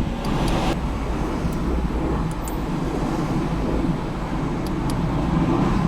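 Steady vehicle noise: a continuous low rumble with an even hiss over it.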